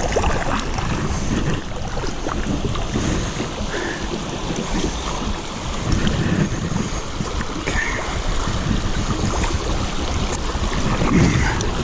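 River water splashing around a kayak, with wind noise on the microphone.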